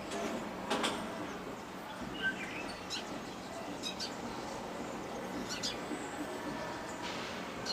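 Outdoor ambience: a few birds chirping briefly and intermittently over a steady background hiss, with a short burst of noise about a second in.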